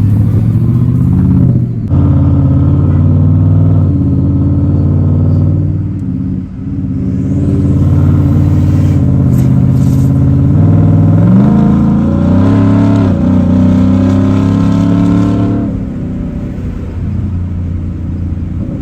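A car engine running under load while driving, its pitch mostly steady. It rises and falls once about eleven to thirteen seconds in, as with a burst of throttle, and it gets quieter a few seconds before the end.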